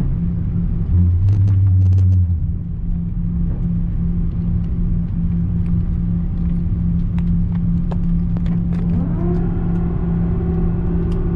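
Airliner cabin noise of an Airbus A340-300 on the ground after landing: a steady low hum and rumble from its engines, with a louder low drone for about a second and a half near the start and a few light clicks. About nine seconds in, a higher hum rises in and holds steady.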